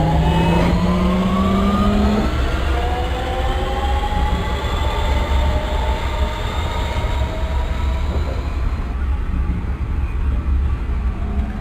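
Lisbon Metro ML90 train accelerating, its electric traction whine rising in pitch in several tones over the steady low rumble of the running gear. A low tone drops out about two seconds in, and the whine fades about nine seconds in as the train stops drawing power.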